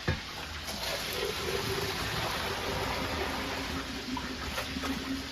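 Kitchen tap running, water pouring and splashing into a sink, with a sharp knock right at the start.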